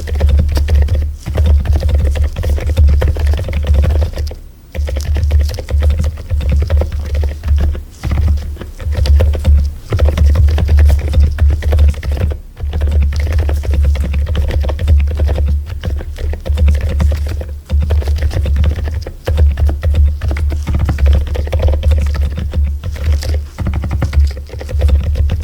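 Continuous typing on a mechanical keyboard, many quick keystrokes, over background music with a heavy steady bass.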